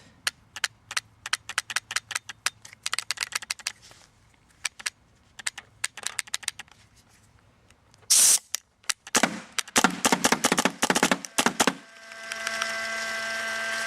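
Electronic paintball marker being worked: repeated sharp clicks, then a loud shot about 8 seconds in and a quick string of shots a second later, ending in a steady tone. It is misfiring intermittently, which the owner suspects is the trigger micro switch or the board.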